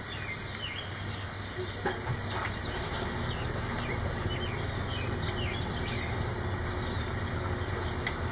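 Steady rain falling, with scattered sharp drips and taps.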